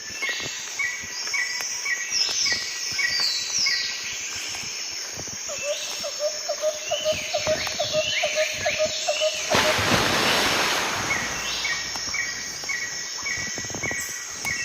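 Several wild birds singing and calling over one another, with quick repeated chirps and sliding whistles, and a rapid series of lower repeated notes midway. About two-thirds of the way in, a loud steady rushing noise rises under the birdsong.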